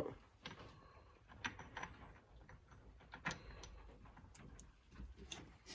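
Faint, scattered clicks and light metallic taps of small engine parts being handled and fitted, a sprocket onto its shaft, a few at irregular intervals.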